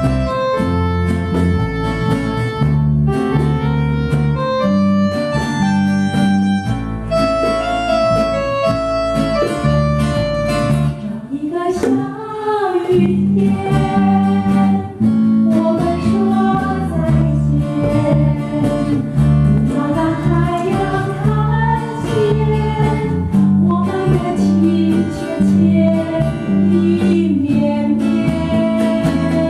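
Band music with plucked guitar accompaniment over a repeating bass line; from about twelve seconds in, a gliding melody line joins.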